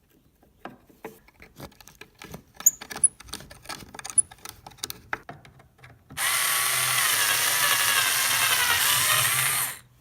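Scattered clicks and knocks as the electric drill is handled and clamped into place, then the drill motor runs for about three and a half seconds with a slightly wavering pitch and stops suddenly near the end.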